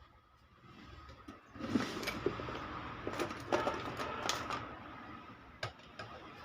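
Handling noise on a workbench: a run of sharp clicks and clattering as tools and parts are moved about, busiest from about a second and a half in, with a last click near the end. A faint steady whine runs underneath.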